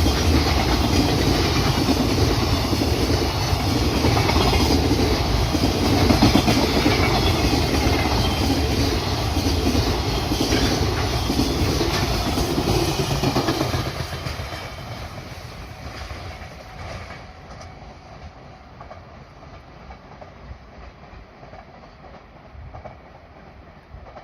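Freight train rolling past on the rails, loud for about fourteen seconds, then dropping off suddenly as the last wagons go by and fading away.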